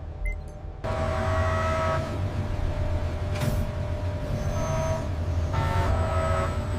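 Steady industrial machinery rumble with a droning hum that kicks in abruptly about a second in, with faint swelling surges every couple of seconds.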